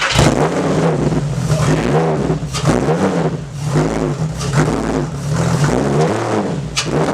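Car engine, just started, being revved repeatedly through a newly fabricated custom exhaust, its pitch rising and falling with each blip of the throttle.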